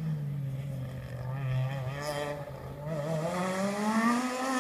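Rally car engine running at steady revs, then revving up steadily over the last second and a half as the car accelerates.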